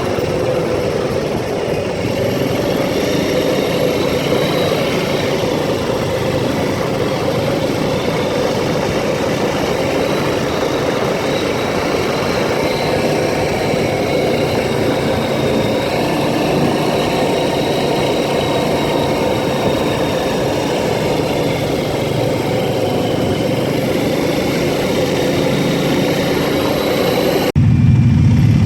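ATV engine running steadily under way, its pitch drifting slowly up and down with the throttle. About a second before the end the sound switches abruptly to a louder, deeper rumble.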